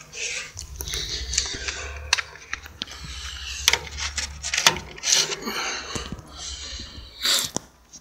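Handling noises: irregular rustling and crinkling with scattered sharp clicks and knocks, over a low rumble.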